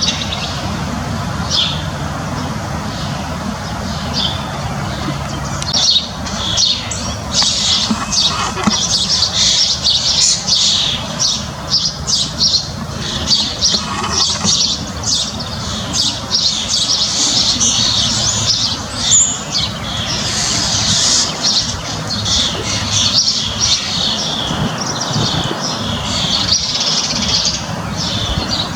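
Backyard birds chirping and calling, many short calls overlapping, busiest through the middle and thinning near the end, over a steady low background rumble.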